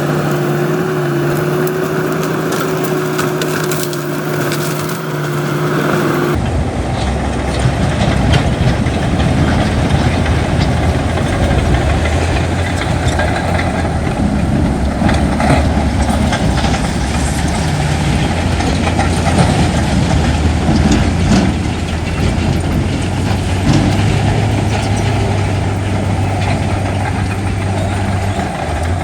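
Heavy diesel earthmoving machinery running under load, with stone and soil crunching and scraping. About six seconds in the sound changes abruptly to a deeper engine drone.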